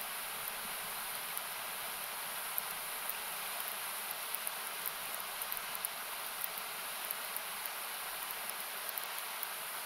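Wood campfire crackling with small, irregular pops several times a second over the steady rush of river water, which is the louder sound.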